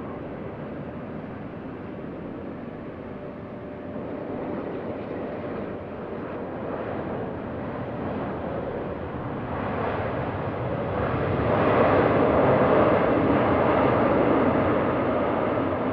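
Jet airliner engines: a broad rushing noise with a faint steady tone underneath. It grows louder from about ten seconds in and stays at its loudest near the end as the aircraft passes.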